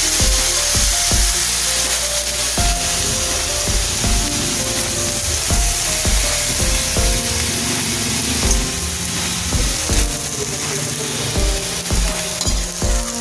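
Vegetables for chop suey sizzling as they stir-fry in a steel wok. Under it runs background music with a steady beat and low thumps.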